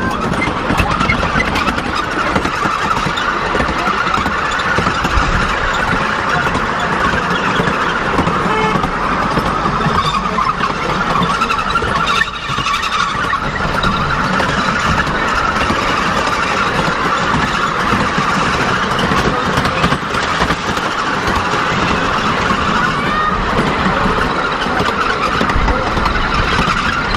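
Miniature ride-on train running steadily, with a continuous high whine over the running noise. The whine dips briefly about halfway through.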